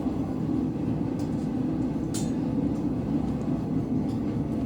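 Blacksmith's forge running with a steady low rush while a workpiece heats, with one light click about two seconds in.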